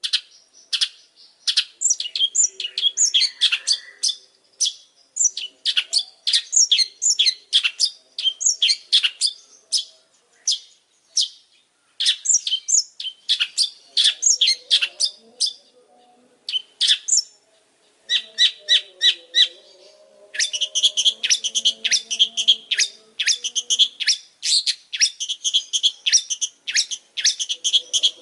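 Long-tailed shrike (pentet) singing a rapid, varied chattering song of short, sharp high notes in bursts with short pauses, turning to a denser run of quickly repeated notes about two-thirds of the way through. Fainter, lower warbling tones run underneath.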